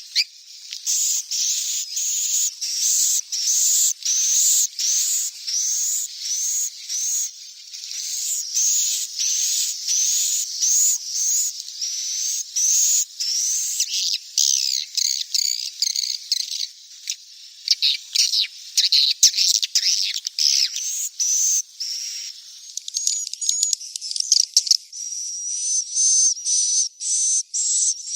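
Swiftlet chicks' calls: a dense run of high, rapid chirps, about two a second, each a short sweeping squeak. Near the end they come faster over a steady thin whistle. This is the swiftlet call sound played in swiftlet houses to lure the birds in to roost.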